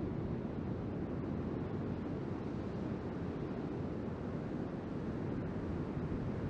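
Wind buffeting the microphone over the steady wash of ocean surf, a continuous low rumble.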